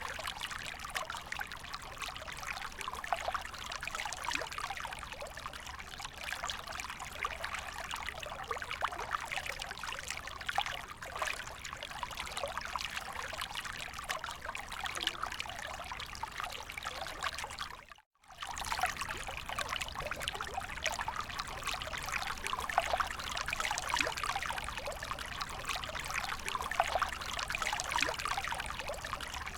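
Creek water trickling and babbling steadily, with a brief break in the sound a little past halfway.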